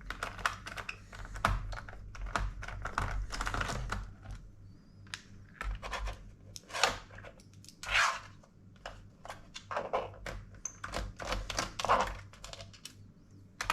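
Hard-drive magnets clicking and clacking irregularly as they snap against each other and against metal, with a few louder clacks among many small clicks.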